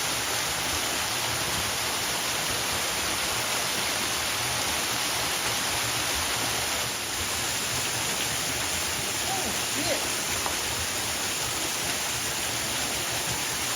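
A waterfall rushing steadily, a constant full hiss of falling water.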